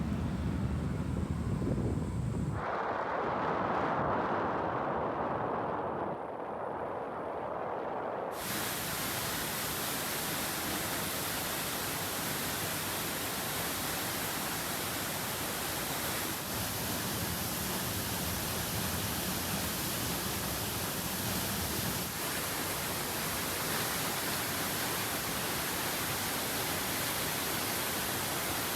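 Rushing river water, a steady, even noise. The sound changes abruptly twice in the first eight seconds, from a low, wind-buffeted rush to a narrower mid-pitched rush and then to a full, bright one.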